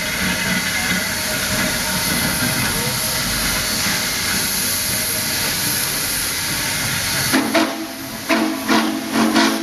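Steam locomotive venting steam with a loud, steady hiss. About seven seconds in the hiss changes and several short, louder bursts follow.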